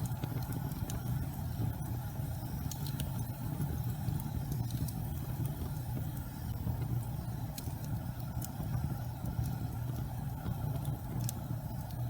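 Gas fireplace flames burning with a steady low rumble, with a few faint, scattered crackles.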